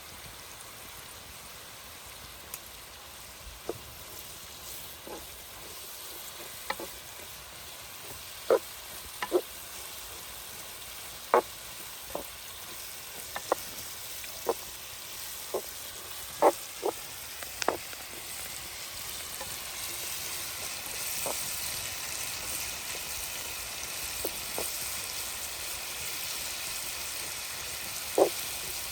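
Scattered sharp pops and crackles at irregular intervals over a steady hiss, the hiss growing louder about two-thirds of the way through.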